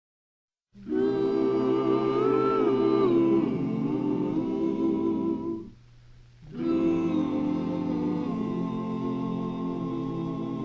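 Wordless vocal-group humming in close harmony opens a 1949 popular-song record: two long sustained phrases with a short break about halfway through.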